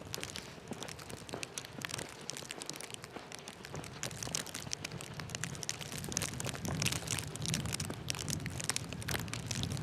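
Outdoor street ambience on a snowy walk: dense, irregular crackling and ticking, with a low rumble that grows louder in the second half.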